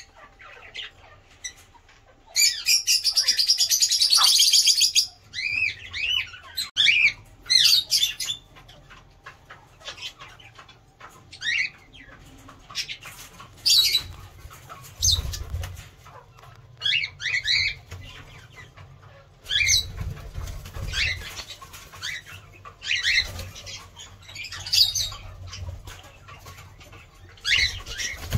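A colony of aviary birds calling in short chirps and squawks throughout. About two seconds in there is a loud, rapid fluttering burst lasting a few seconds.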